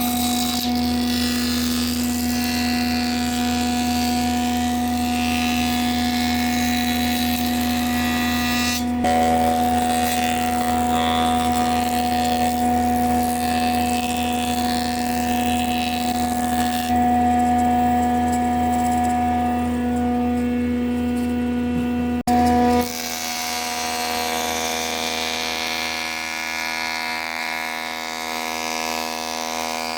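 A small electric power tool running steadily with a constant motor hum. It breaks off briefly about two-thirds of the way in, then carries on at a slightly changed tone.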